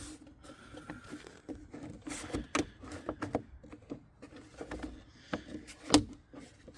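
Hand handling of a loose part in a car's engine bay: scattered small clicks, taps and rubs, with one louder knock about six seconds in.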